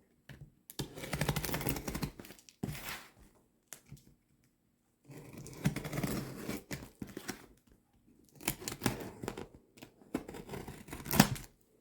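A shipping box being opened by hand: packing tape tearing and cardboard and packaging rustling, in three bursts with short pauses between them.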